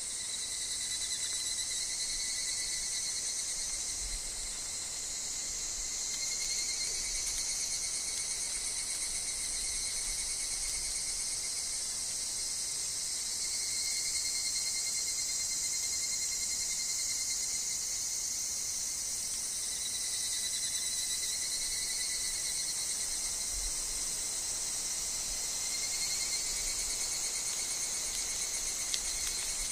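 Chorus of higurashi (evening cicadas) and other insects: a steady high shrill that swells and eases in slow waves, over a thin pulsing tone.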